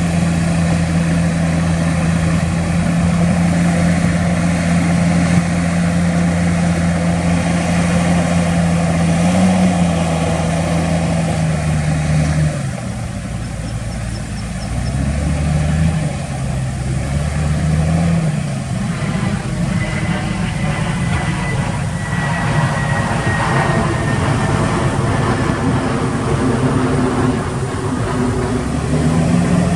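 Heavy diesel engine of earthmoving machinery running steadily. About twelve seconds in the revs drop, then rise and fall twice, with a faint high whine a little later.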